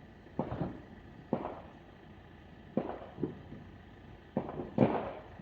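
Fireworks exploding at a distance: about six irregularly spaced bangs, each followed by a short echoing tail, with the loudest pair near the end.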